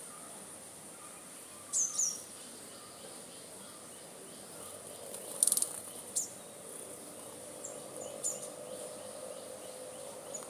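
Small birds giving short, high chirps, a pair about two seconds in and a scatter more near the end, with a brief rattle in between, over a steady faint high insect drone.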